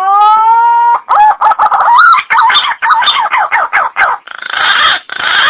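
Green pigeon (punai) calling: a long whistled note rising in pitch, then a quick run of wavering, warbling notes, and at the end a few harsher, rougher notes.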